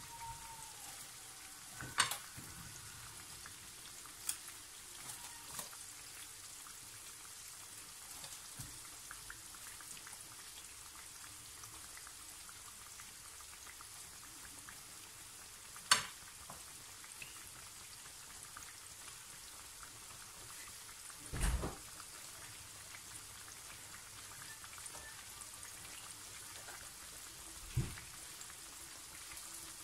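Breaded chicken pieces deep-frying in hot oil in a pan: a steady sizzle, broken four times by a brief sharp crack.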